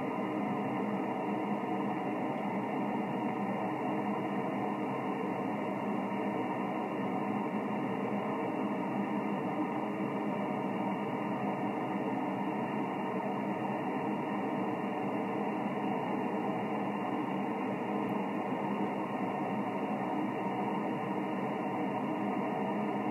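Single-sideband audio from a Yaesu FT-1000MP HF receiver on the 20 m band: a steady hiss of band noise and static with no station transmitting, cut off sharply above about 3 kHz by the receiver's filter.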